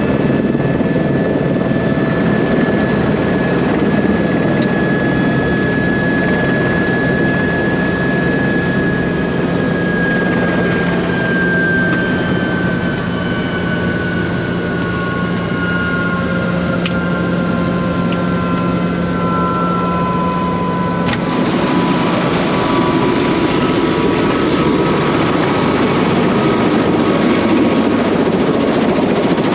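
Helicopter turbine and rotor noise, a steady loud drone with a high whine that slowly falls in pitch. About two-thirds of the way through, the sound abruptly becomes brighter and fuller.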